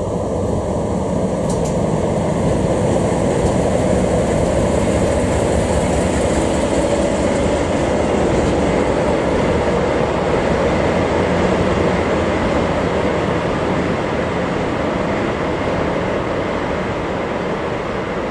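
DE10 diesel-hydraulic locomotive running past, followed by a rake of 50-series passenger coaches rolling by on the rails in a steady rumble.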